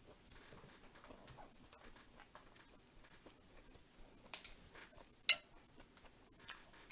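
Faint close-up chewing and mouth sounds of someone eating a buttered wheat roll, with small scattered clicks and one sharper click about five seconds in.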